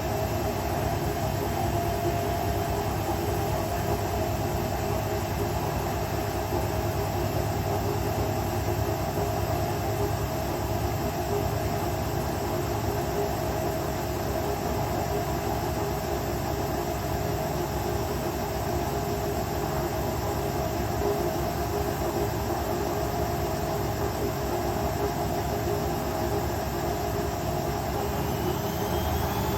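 Indesit Ecosense washing machine spinning on its 800 rpm spin cycle: a steady motor whine over the rumble of the drum. A faint rising whine starts near the end.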